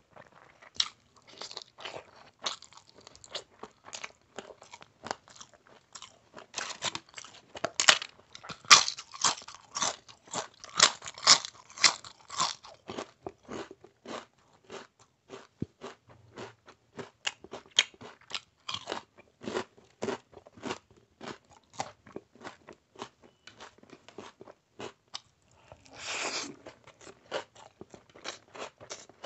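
Close-miked chewing and crunching of a rice-and-curry meal eaten by hand, a rapid run of small crackly bites and smacks. The crunching is loudest and densest about a third of the way in, and a short rushing noise comes near the end.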